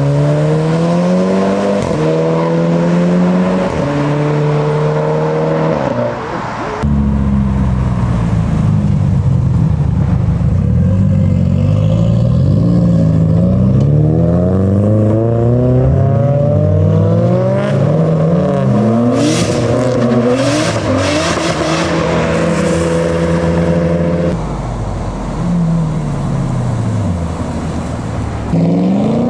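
Performance car engines accelerating hard, the pitch climbing and dropping through gear changes, with more than one car heard at once. A run of sharp cracks comes a little past the middle, and the sound changes abruptly twice.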